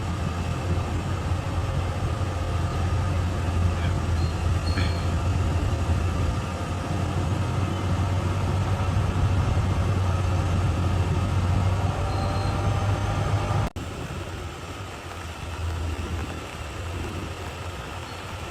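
Bulldozer's diesel engine running steadily with a deep drone. About three-quarters of the way through, the sound breaks off for an instant and resumes a little quieter.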